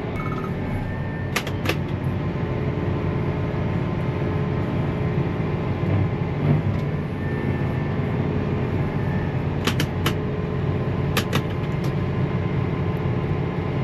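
John Deere 8RX tractor engine running steadily under load during a rope pull, with three pairs of short, sharp clicks spread through.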